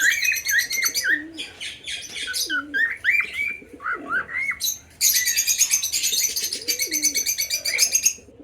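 A mixed flock of parakeets, cockatiels and doves calling together in an aviary: dense, fast high chattering at the start and again from about five seconds in, rising whistled chirps in between, and low cooing from the doves underneath.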